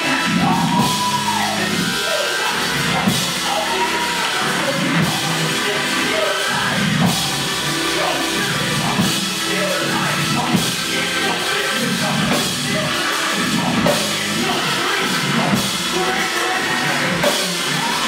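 Loud live church band music with a drum kit keeping a steady beat.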